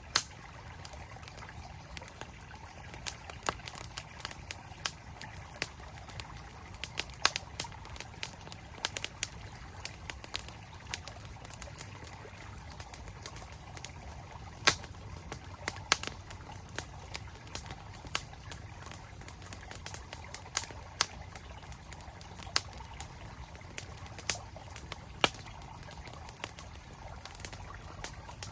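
Wood campfire crackling with irregular sharp pops over the steady rush of a flowing mountain stream.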